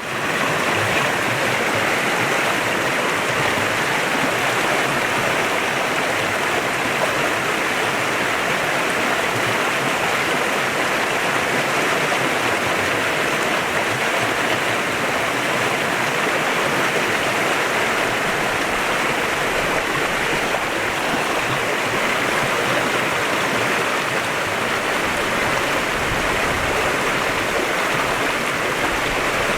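Clear river flowing: a steady, even rush of water that fades in at the very start.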